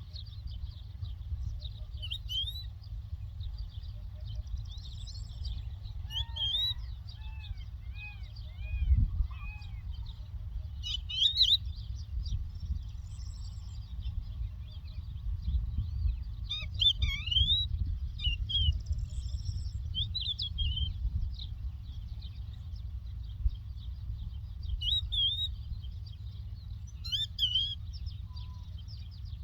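Lark song: short, bright chirps and trills in scattered bursts, over a steady low rumble. For a few seconds, starting about six seconds in, a run of lower, looping arched notes joins in.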